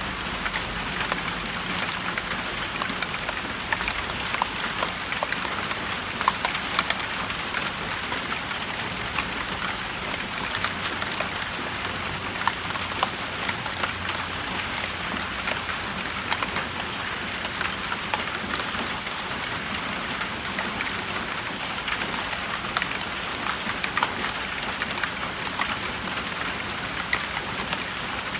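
Rain falling on a tin roof and on three inflated balloons: a steady patter with many sharp, irregular taps of single drops.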